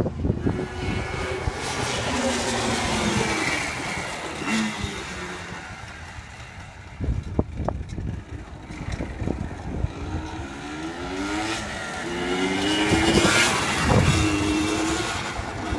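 Yamaha Blaster ATV's 195cc two-stroke single-cylinder engine being ridden, revving up and easing off again and again. The engine drops quieter about halfway through, then climbs through several quick rising revs and is loudest near the end.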